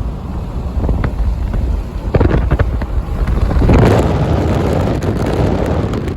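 Wind buffeting the microphone: a loud, uneven low rumble with scattered crackles, swelling about halfway through.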